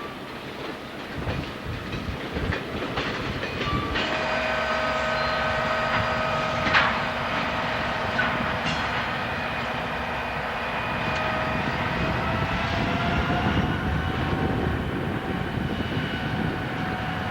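Train rolling along the track, its wheels clicking over rail joints. About four seconds in, a steady high-pitched whine of several tones joins it.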